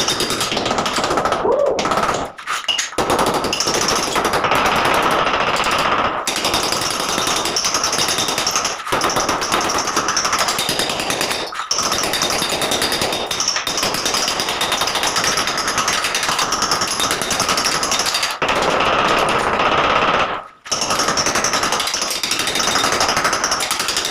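Electric demolition hammer chiselling out ceramic tiles and mortar. It runs in long rattling bursts, stopping briefly several times.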